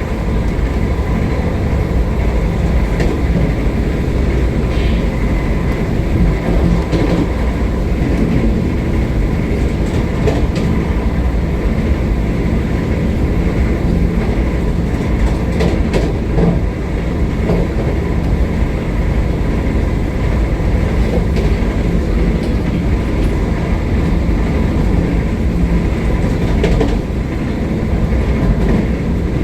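Vande Bharat electric train running at speed, heard from inside the coach: a steady rumble of wheels and carriage with a few light clicks and knocks from the track.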